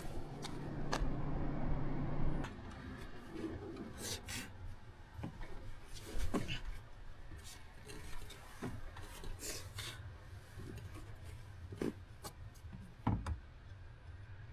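A low steady hum that cuts off about two and a half seconds in, followed by scattered light knocks, clicks and rubbing, as of hands handling things.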